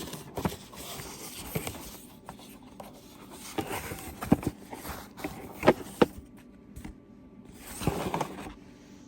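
Rustling and scraping as packaging and a solar charger panel with its cord are handled and unpacked, with several sharp clicks and knocks of plastic parts being set down and a longer rustle near the end.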